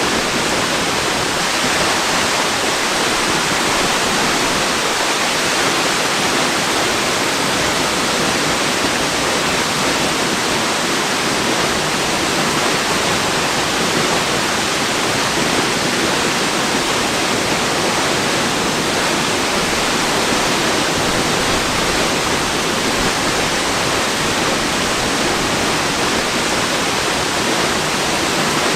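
Waterfall rushing: a steady, even roar of falling water with no other events.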